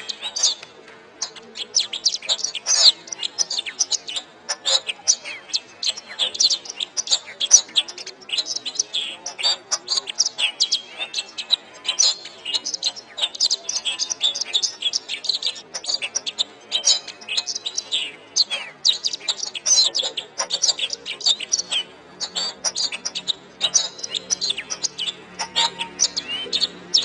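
Domestic canary singing a long, unbroken song of rapid chirps, warbles and trills, high-pitched and dense with notes.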